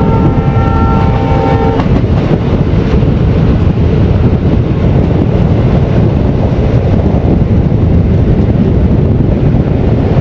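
Train horn sounding a steady chord that stops about two seconds in, then the loud, steady rumble of the moving train.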